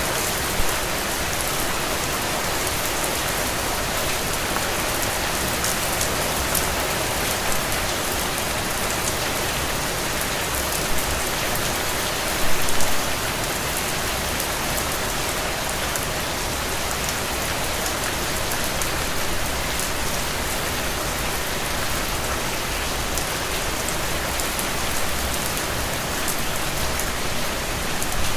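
Heavy, steady rain falling on the ground, a dense even hiss of many drops, with a few louder drop splashes, the biggest cluster about halfway through.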